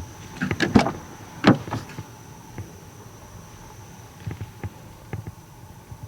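Bullfrog croaking: a quick cluster of short, rough croaks about half a second in, a strong one at about a second and a half, then fainter ones near the end.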